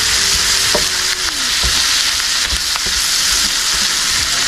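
Sliced kielbasa and bell peppers sizzling steadily in an electric skillet, with a few short scrapes and clicks from a slotted spoon stirring them.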